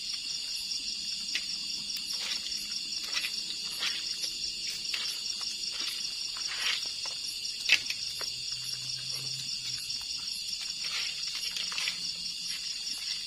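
Steady chorus of night insects, a dense high pulsing trill. Scattered light clicks and knocks sound over it, one sharper about eight seconds in.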